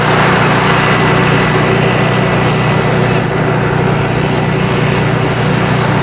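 Sakpattana SS-300 Black Bird combine harvester running steadily with its 5-cylinder, 170 hp engine and machinery, a dense, continuous mechanical din with a thin high whine above it.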